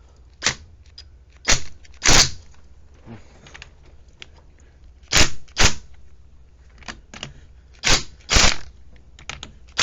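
Impact wrench fired in short, sharp bursts, about eight of them and often in pairs, run onto the cylinder head bolts of an ATV engine.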